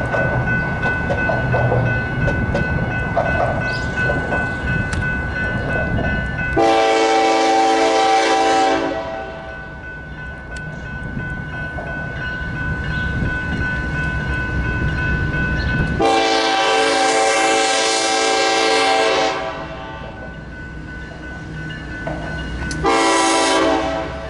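Diesel locomotive air horn sounding two long blasts and then a short one, the opening of the grade-crossing signal, over the rumble of the locomotive's engine as the train approaches.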